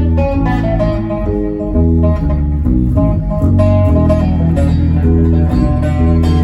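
Live band playing instrumental rock: guitar notes ringing over a steady bass line.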